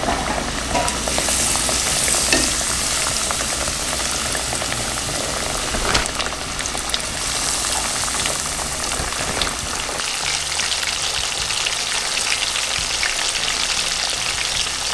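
Breaded rock bass fillets frying in hot peanut oil in a stainless steel pan: a steady, dense sizzle. A few short clicks of metal tongs sound as more pieces go in.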